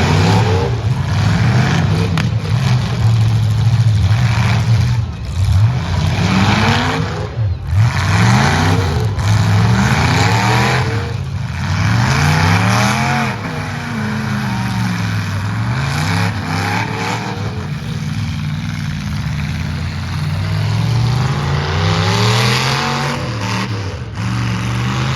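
Several demolition derby trucks' engines revving hard and dropping back, over and over, as they accelerate and back off. A few sharp knocks from the trucks hitting each other come through early on the way.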